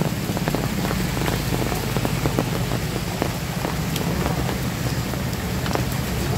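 Heavy rain pouring onto a flooded street: a steady hiss of water with many individual drops ticking on puddles and hard surfaces. A small motorbike running through the standing water adds a low, steady sound underneath.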